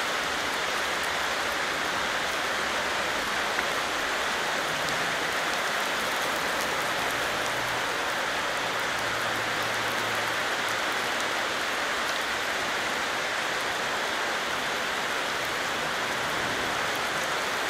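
Steady rain falling from a thunderstorm: an even, unbroken hiss of rain with a fine patter of individual drops.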